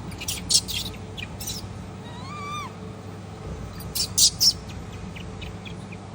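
Macaque calls: several short, sharp, high-pitched squeals, some in quick clusters, and one clear call about two seconds in that rises and falls in pitch.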